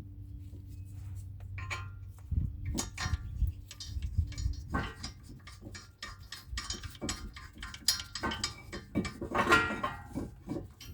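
Small metal clinks, taps and knocks from brake parts and bolts being handled as a front brake caliper is refitted and its bolts started by hand. The clicks come irregularly and grow busier after about two seconds, over a low steady hum in the first half.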